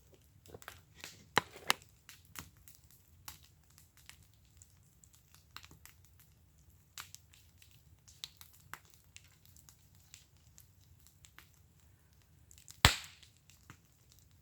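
Wood fire crackling in a fire pit: irregular small pops and snaps, with one sharp, louder pop near the end.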